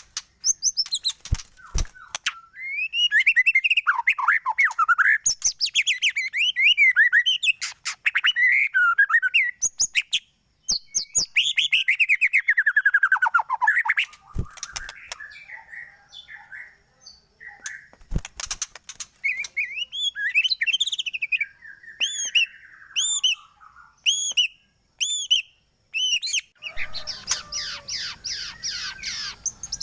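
White-rumped shama (murai batu) song: loud, varied phrases of quick whistles and trills in bursts separated by short pauses. About two-thirds of the way through comes a run of evenly repeated sharp notes, and a harsh, noisy chatter near the end.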